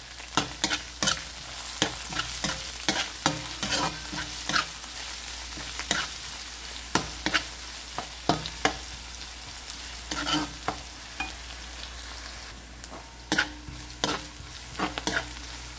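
Chopped red onion, garlic and ginger sizzling in oil in a frying pan on medium heat, stirred with a plastic spoon that scrapes and taps against the pan again and again.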